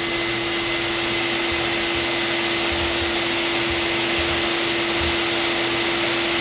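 Vacuum cleaner motor running steadily, an even rushing whir with a constant hum under it, drawing power from an inverter as a test load.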